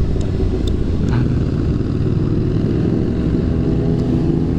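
Honda CBR600RR inline-four engine running at a steady speed while riding, heard with road and wind noise. The pitch holds level with no revving.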